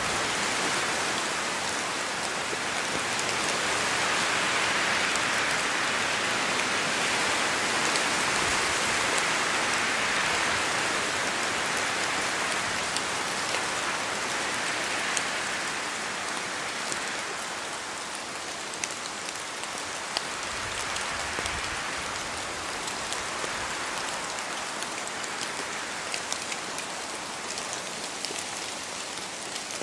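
Steady rain falling in a forest, a continuous hiss with scattered sharp ticks of individual drops. It swells louder in the first half and gradually eases toward the end.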